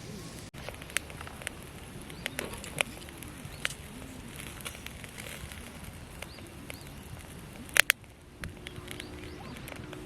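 Wood campfire crackling, with irregular sharp pops and one louder double pop near the end.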